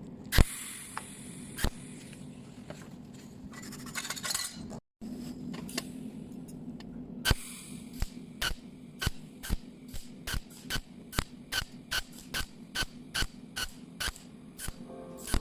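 Cold welding machine firing pulse after pulse, each a sharp snap, settling into a regular rhythm of about two a second in the second half, over a steady low hum.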